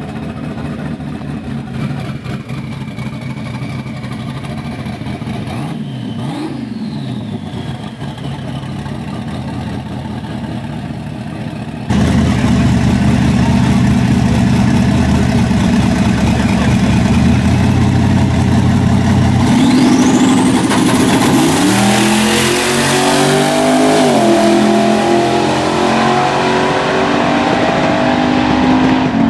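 Drag-racing car engine running at a steady pitch, then, louder, accelerating hard from a launch with its pitch climbing steeply, dropping at a gear change and climbing again, a high whistle rising with it.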